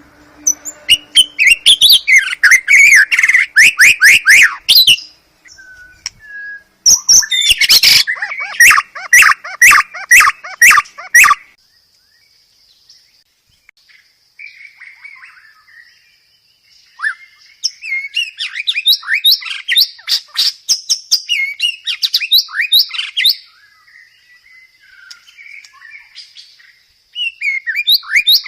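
Songbird song on a bird-training recording: two loud bouts of fast repeated sharp notes and trills in the first half. After that come quieter scattered chirps over a faint, steady, high-pitched tone.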